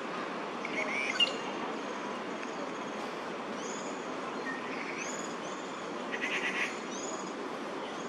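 Small birds chirping in the park trees over a steady background hum: short, high, arched chirps every second or two, a sharp louder chirp about a second in, and a quick rattling run of notes a little after six seconds.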